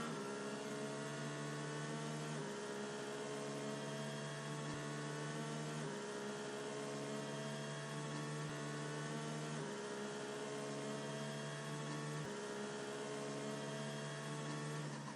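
A steady electronic drone with a low pitched hum that slowly slides lower and jumps back up about every three seconds, like a looping backing track under the quiz timer.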